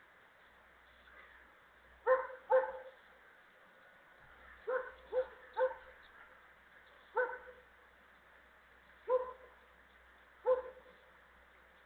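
A dog barking, eight short barks singly and in quick pairs and triplets.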